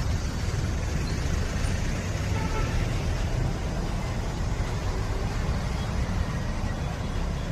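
Road traffic on a highway: the steady rumble of buses, trucks and cars moving slowly through waterlogged road, with a brief faint horn.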